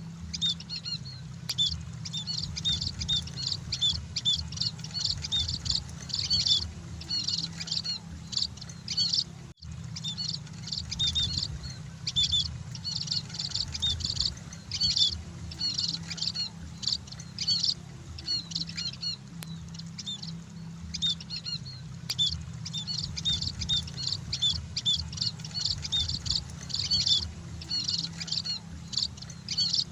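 Many munias (emprit) chirping in a flock: rapid, overlapping short high chirps, over a steady low hum. The sound drops out for a split second about ten seconds in.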